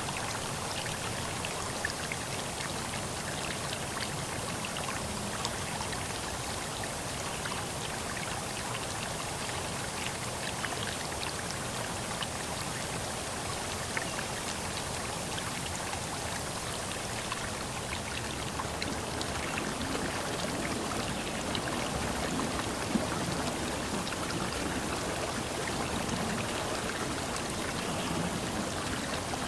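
Steady outdoor water sound: a continuous hiss dotted with many small drips and splashes, growing a little fuller and deeper from about twenty seconds in.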